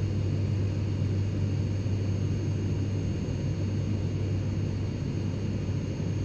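Steady low hum and rumble inside the cabin of an ATR 72-600 turboprop airliner standing on the ground, with faint steady high-pitched whines over it.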